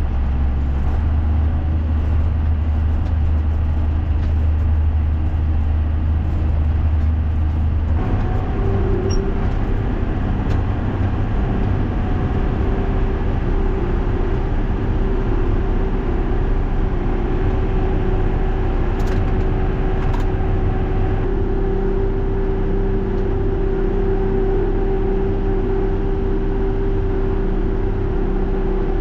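John Deere tractor engine running steadily under way. About eight seconds in the sound changes and a steady higher whine joins the engine.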